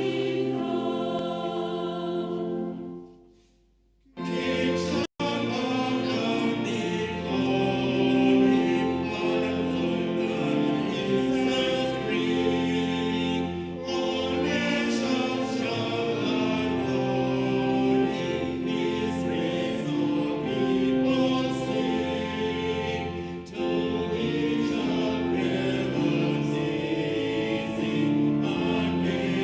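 A choir singing a hymn in sustained, held notes. The singing fades out about three seconds in, there is a brief silence with a single click, and the singing then starts again.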